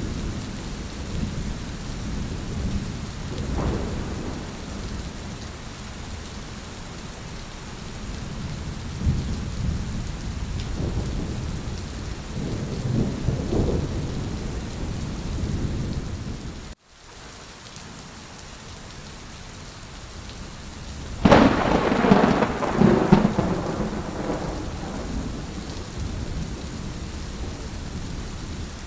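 Steady heavy rain with rolling thunder rumbling low in the background. Past the middle the sound cuts out for an instant, then about three quarters of the way through a loud thunderclap breaks and rumbles away over a few seconds.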